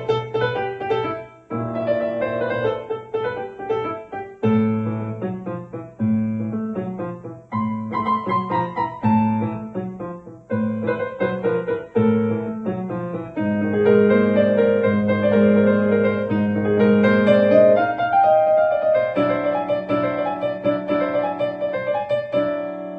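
Solo piano playing a gentle piece: short phrases whose notes ring and die away, separated by brief pauses, then fuller, held chords from a little over halfway through.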